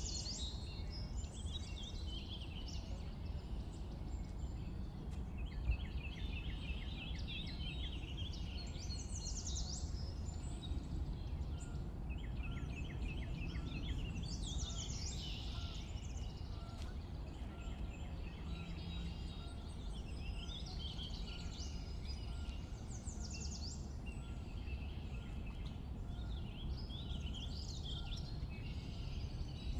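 Birds chirping and singing in short phrases and quick trills that come again every few seconds, over a steady low background rumble.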